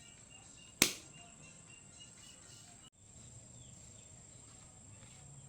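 A single sharp click about a second in, over a faint steady high-pitched whine and, later, a low hum.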